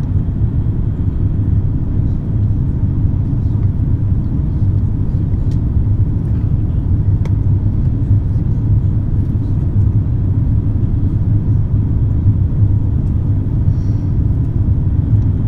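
Steady low rumble of an Airbus A350-900 cabin heard from an economy seat, with a few faint ticks.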